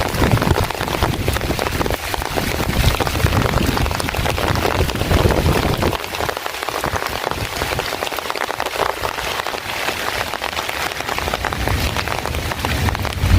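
Heavy rain falling, a dense, steady patter of drops. A low rumble sits underneath for the first half and drops away about six seconds in.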